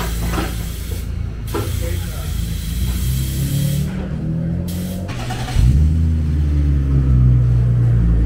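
Engine of a BMW E46 Spec E46 race car running in a garage, a steady low hum that grows suddenly louder about five and a half seconds in and holds a strong, steady idle.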